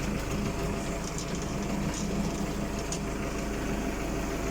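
Tractor diesel engine running steadily, driving a PTO-powered transit concrete mixer.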